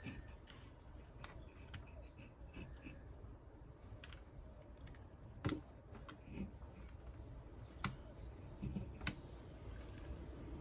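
Scattered small clicks and scrapes of a flat-blade screwdriver prising a cable end out of a Land Rover Freelander 2 door lock mechanism, with sharper taps about five and a half and nine seconds in.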